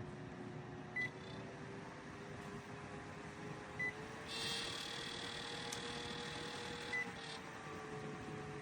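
Small electric fan motor running with a steady hum, its pitch rising slightly a few seconds in and easing back down. A short high beep sounds about every three seconds. A hiss comes up for about three seconds in the middle.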